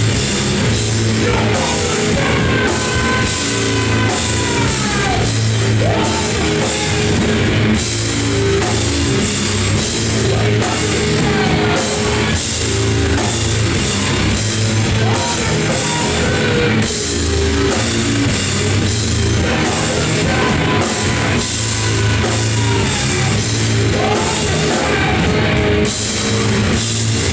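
A live noise-rock trio playing loud: distorted electric guitar, bass and a driving drum kit, with guitar notes sliding down in pitch several times.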